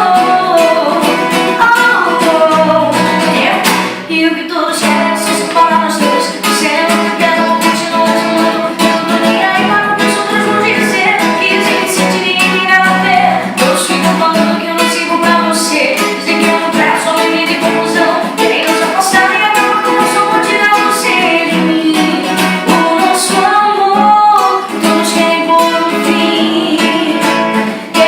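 A woman singing a pop ballad over a strummed guitar, in a live unplugged performance.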